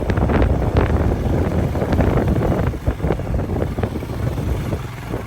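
Motorcycle riding over a rough road: engine rumble and wind buffeting the microphone, with many short knocks and rattles.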